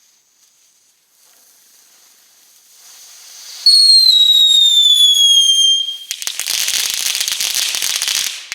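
Small consumer firework: a hissing fuse, then a loud whistle that falls slowly in pitch for about two seconds, followed by about two seconds of dense crackling that stops abruptly.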